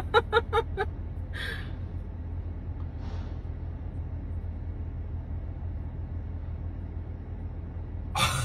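Steady low hum of an idling car, with a brief voice in the first second and a short breathy hiss about a second and a half in.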